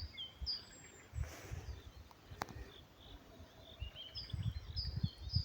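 Small birds calling: a run of short, high, downward-sliding notes repeated two or three times a second, which stops about a second in and starts again near the end. Low bumps and rumble sit underneath.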